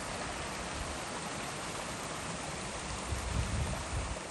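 Floodwater rushing over a field into the swollen River Coln, a steady hiss, with wind buffeting the microphone a little past three seconds in.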